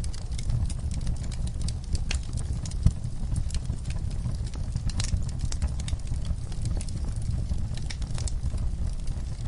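Wood logs and coals burning in a camp fire pit, crackling and popping in quick irregular snaps over a steady low rumble, with one louder pop about three seconds in.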